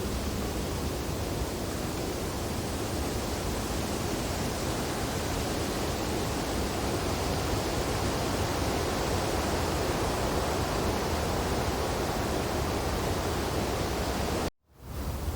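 Steady wind blowing through tree branches in a snowfall, an even rush of noise. Near the end it cuts out for a split second, then fades back in.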